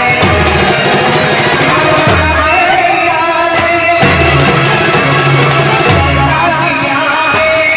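Banjo party band music: an amplified banjo melody over drums with heavy repeated low beats, with a singer's voice.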